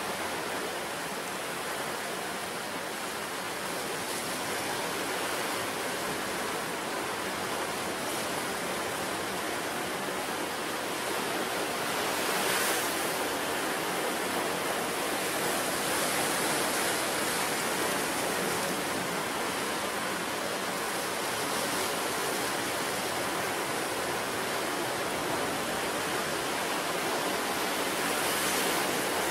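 Ocean surf on a beach: a steady wash of breaking waves that swells a little louder about twelve seconds in and again near the end.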